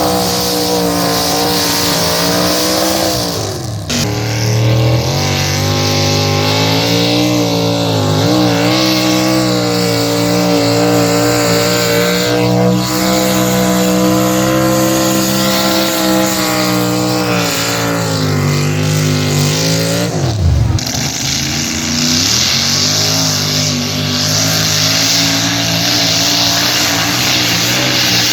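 Engine of a pulling truck or tractor running hard at high revs under load. Its pitch drops sharply twice, about four seconds in and about twenty seconds in, and climbs back each time.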